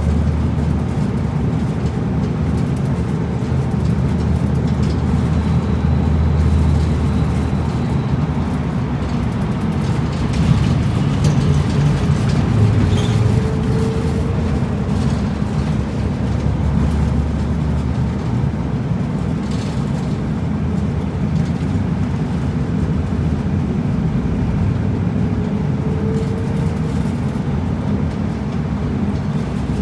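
Route bus driving, heard from inside the cabin: a steady low engine hum with road noise, the engine note changing a few times, and a few short rattles.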